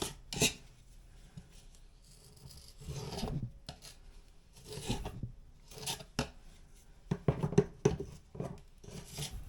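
Shrink-free spackle being spread and scraped over a drywall patch, in short, irregular scraping strokes.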